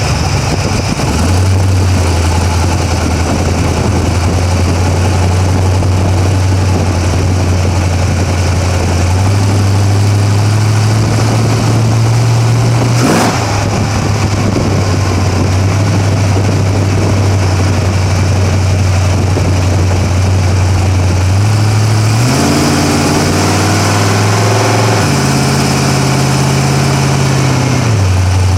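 A drag-racing Camaro's engine idling loudly and steadily, with a single sharp crack about halfway through. Near the end the engine speed climbs in steps, holds briefly, then drops back to idle.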